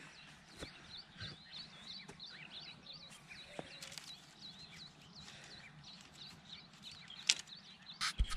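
A small bird calling over and over, a short high chirp about three times a second, outdoors in the countryside. Near the end come a couple of sharp knocks as the bamboo and wire gate of the chicken run is handled.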